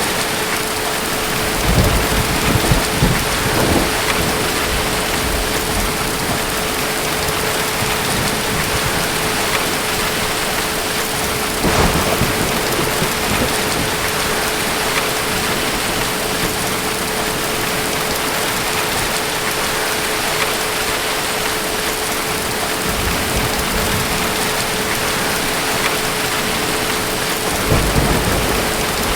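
Steady rain falling, with distant thunder rumbling low several times: about two seconds in, around twelve seconds, and again near the end.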